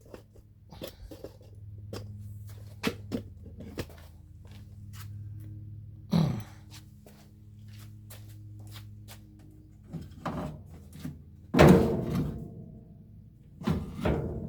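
Scattered clicks and knocks of hands and tools working on a Corvair engine, with a few louder thunks in the second half, over a steady low hum.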